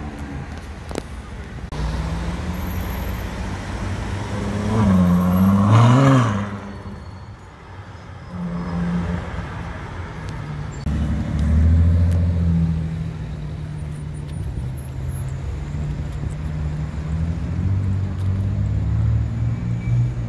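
Sports car engines accelerating hard along a city street. About five seconds in, one car passes close, its engine note climbing and then falling as it goes by. From about eleven seconds on a deep engine rumble follows.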